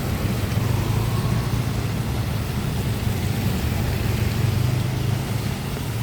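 Street traffic: a motor vehicle engine running steadily, a low even rumble under a constant hiss.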